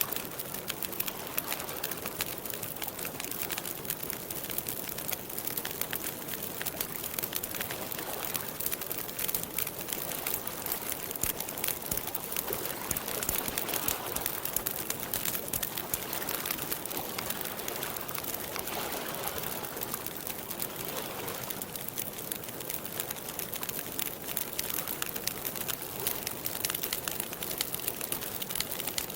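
Wood fire crackling steadily, with a dense run of small pops and snaps over a soft hiss.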